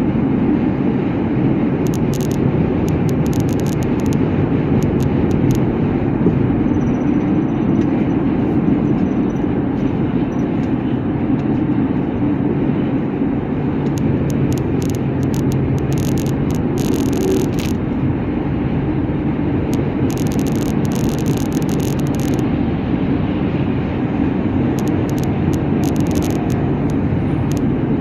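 Steady road and engine drone of a vehicle on the move, with a few short spells of crackling clicks.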